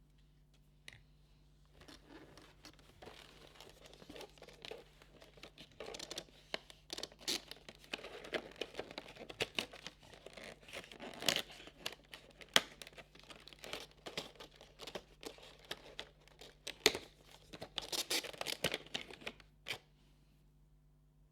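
Advent calendar packaging being torn open and crinkled by hand: a long run of tearing and rustling with many sharp clicks. It starts about two seconds in and stops shortly before the end, with a dense cluster of rustling near the end.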